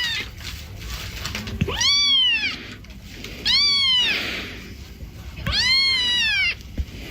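Domestic cat meowing: three long, drawn-out meows, each rising then falling in pitch, with the tail of a shorter one at the very start.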